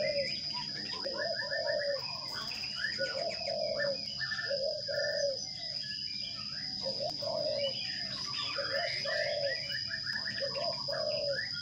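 Birds chirping and calling busily, with repeated low, arched notes, often in pairs, under the chirps and a steady high-pitched whine throughout.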